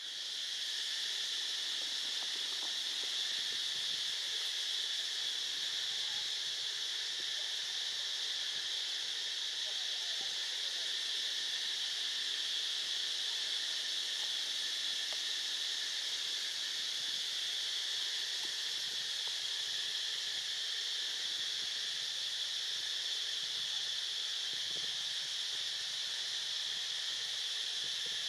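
Steady chorus of insects in the forest, an even high-pitched drone that never breaks.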